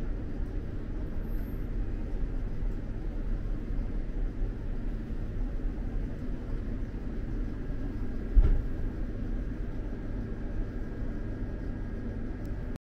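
Steady low rumble inside an X2000 high-speed train's passenger car, with a single thump about eight seconds in. The sound cuts off abruptly just before the end.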